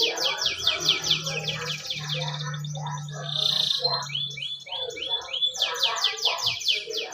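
Domestic canary singing: fast rolls of rapidly repeated downward-sweeping notes in a trilling song, with a harsher rasping phrase about halfway through.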